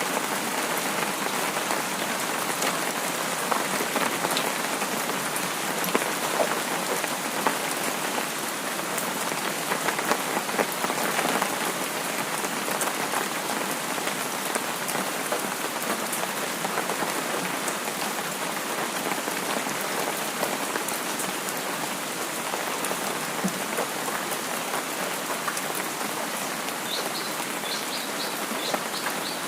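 Steady rain falling, with separate drops ticking in it. Near the end comes a quick run of short, high notes.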